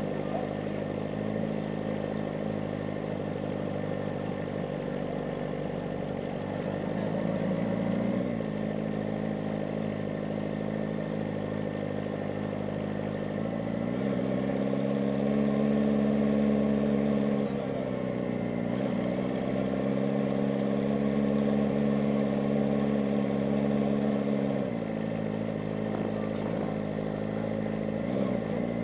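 Kawasaki ZX-4RR's inline-four engine running under way, its note mostly steady, with several brief dips and climbs in pitch as the revs change.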